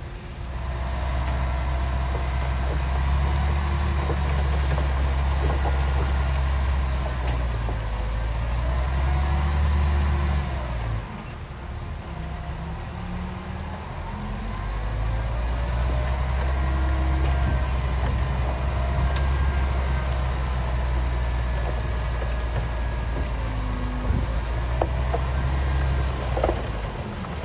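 Heavy diesel engine of earthmoving machinery running hard, easing off for a few seconds about halfway through, then working again, with a few clanks near the end.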